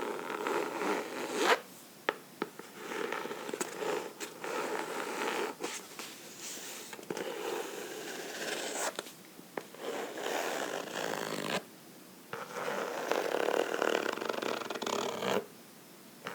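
Fingernails scratching a book in stretches of quick, rasping strokes, broken by short pauses. A few sharp taps come in the first several seconds.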